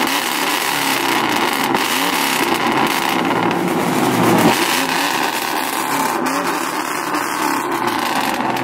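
Ford Mustang convertible's engine revving repeatedly through its exhaust: the pitch rises and falls several times over a continuous loud exhaust sound.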